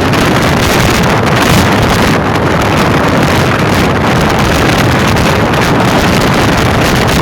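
Steady loud rushing noise of a moving passenger train, wheels rolling on the rails, with wind buffeting the microphone.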